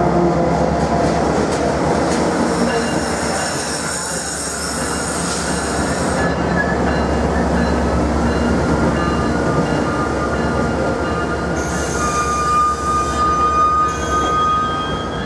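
Virginia Railway Express commuter train's locomotive and bilevel coaches rolling slowly past with a steady rumble as it brakes into the station. A high squeal from the running gear holds steady, growing strongest near the end.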